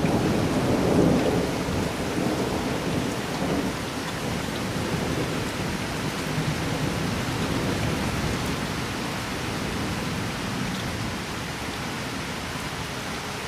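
Steady heavy rain with a low rumble of thunder in the first few seconds that slowly fades.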